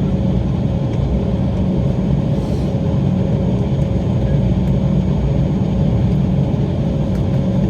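Steady low cabin rumble inside an Embraer ERJ-190 on the ground just after landing, with a constant hum running through it.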